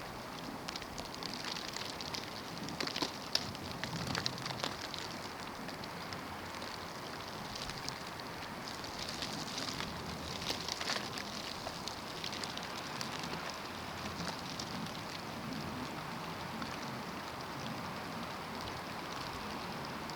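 Snowstorm: a steady hiss with many small ticks and crackles of wind-driven snow striking surfaces. The ticking comes thickest a couple of seconds in and again about ten seconds in.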